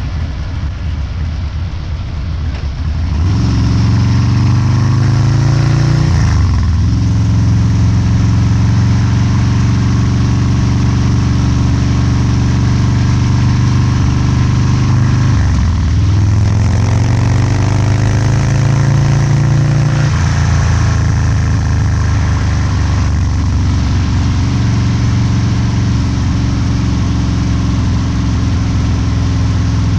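Harley-Davidson Low Rider's 129-cubic-inch V-twin, with a Cycle-Rama CR485 cam and Two Brothers Racing exhaust, running under way. It runs quieter for the first three seconds, then gets louder and pulls steadily, the pitch dipping briefly twice, about six and fifteen seconds in.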